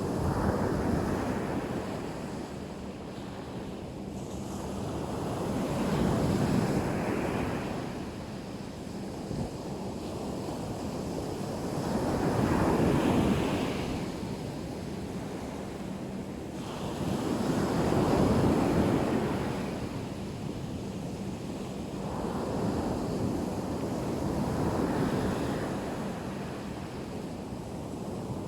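Black Sea surf washing onto the shore, a wave swelling and falling back about every six seconds, five times.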